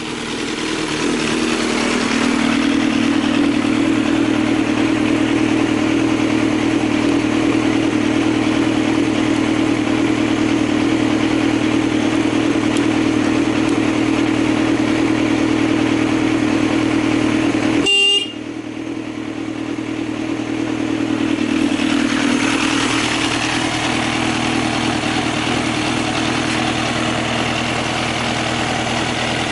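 Yamaha XJR1200 motorcycle with a swapped-in XJR1300 air-cooled inline-four engine on Keihin FCR41 flat-slide carburettors, idling steadily. The sound swells over the first couple of seconds and is cut short by a brief break about eighteen seconds in, then carries on.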